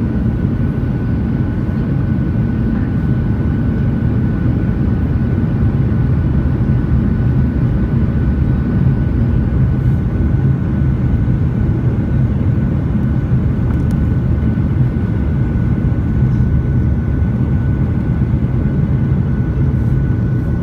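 Steady cabin noise of a passenger aircraft: an even low rumble of engines and airflow, with a thin steady whine above it.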